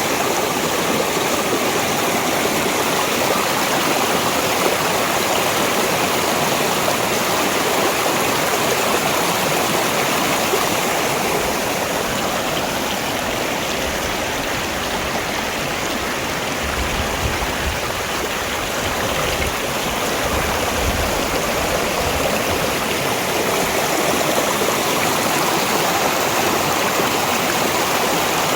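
Mountain valley stream flowing steadily, a constant rush of water.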